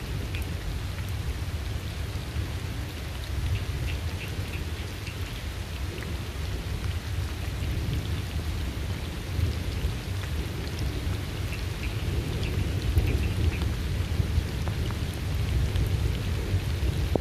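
Steady rain falling, with a continuous low rumble of rolling thunder underneath. Runs of short, high chirps come through the rain near the start and again past the middle.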